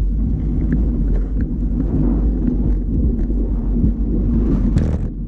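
Steady low rumble of wind buffeting the camera's microphone while riding a bicycle, with a few faint ticks.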